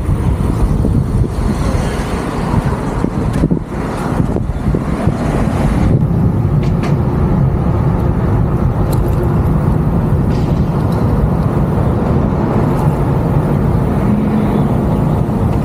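Steady wind and road noise on the microphone of an e-bike rider's camera as the bike runs fast downhill, at about 25 mph.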